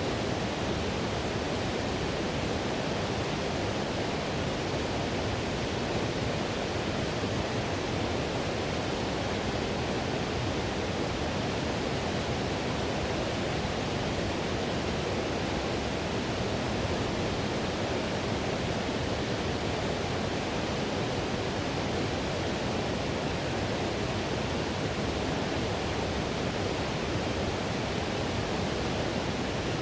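Whitewater river rushing over rapids: a steady, even rush of water without breaks.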